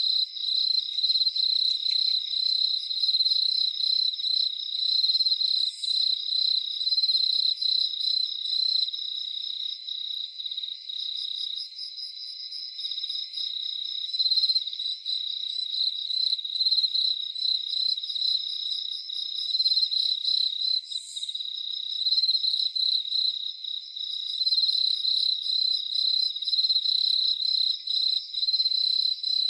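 Crickets chirping in a continuous, high-pitched, pulsing chorus, with a short, higher sound standing out twice.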